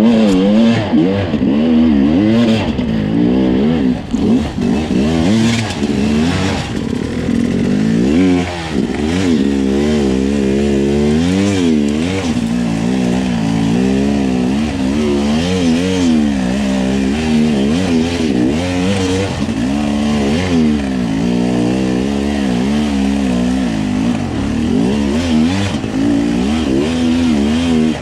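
Two-stroke enduro dirt bike engine being ridden hard, revving up and easing off again and again, its pitch rising and falling with the throttle.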